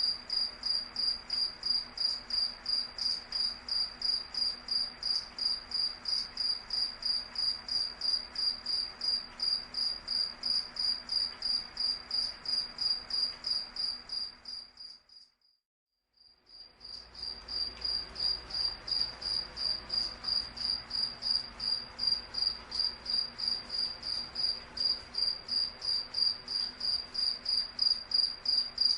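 Cricket chirping in a fast, even rhythm of high pulses. About halfway through, the chirping fades out to a brief silence and then fades back in.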